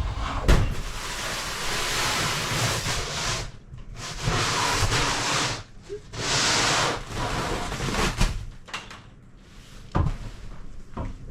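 Snow being scraped and pushed off a boat's canvas top with a roof scraper, in four long swishing strokes, with a few dull knocks in between.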